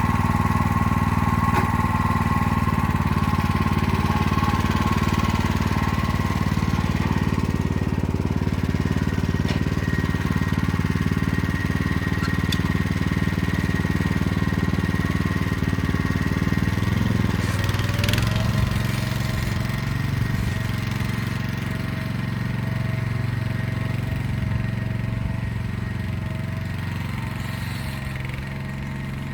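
Motor Sich walk-behind tractor engine running steadily while pulling an arrow-type hiller through the rows. About two-thirds of the way through, its note drops and settles lower, with a brief click as it changes.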